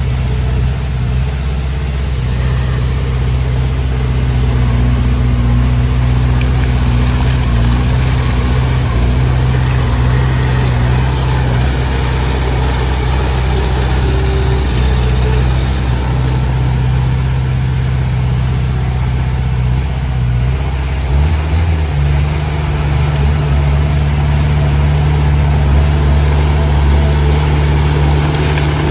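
Komatsu D20P bulldozer's diesel engine running steadily at a low, even note, which shifts a little higher about two-thirds of the way through.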